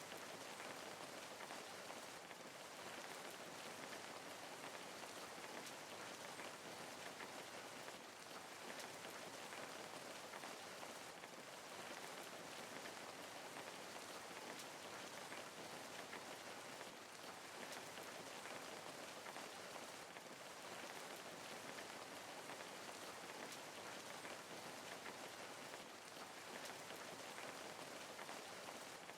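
Steady rain falling, a soft even hiss of many fine drops pattering on a surface.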